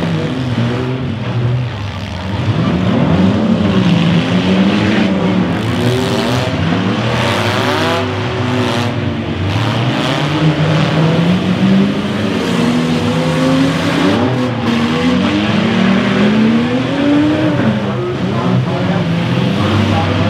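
Several demolition derby cars' engines revving up and down at once, their pitches rising and falling over each other as the cars drive and ram one another, with a few brief crunches of impact.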